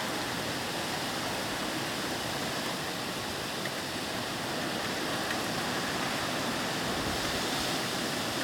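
Heavy typhoon rain coming down in a steady, unbroken hiss.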